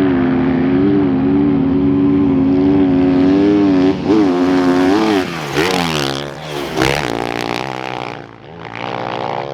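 Off-road racing motorcycle engine held at high, steady revs, then revving up and down with throttle changes about halfway through, with a burst of noise near the two-thirds mark, before it dies down near the end.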